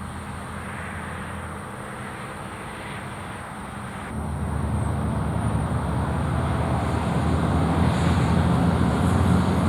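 Low engine rumble of an approaching motor vehicle, swelling from about four seconds in and growing steadily louder.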